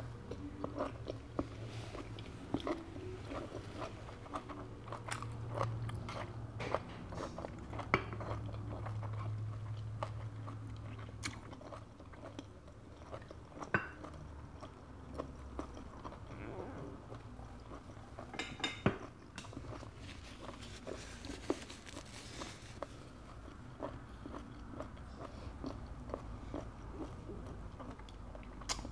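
Close-miked chewing of firm, chewy conch meat, with small wet mouth clicks, for about the first ten seconds. After that come scattered clicks and scrapes of a metal pick working inside a conch shell to pull out the meat.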